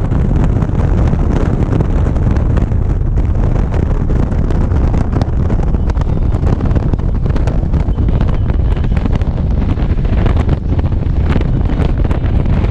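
Wind buffeting a GoPro microphone on a moving motorcycle: a loud, steady, low rumble.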